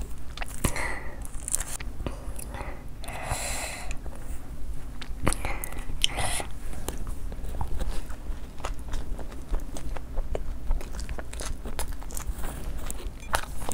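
A person biting and chewing food close to the microphone: a dense run of short wet clicks and small crunches from the mouth.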